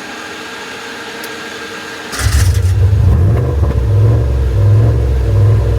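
Rock crawler's engine: a steady whir, then about two seconds in a sudden loud, deep engine rumble takes over and keeps running, swelling and dipping as it revs.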